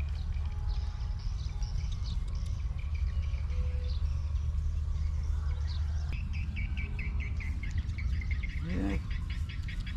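Small birds chirping and calling over a steady low rumble, with a fast pulsing trill setting in about six seconds in and a brief call near the end.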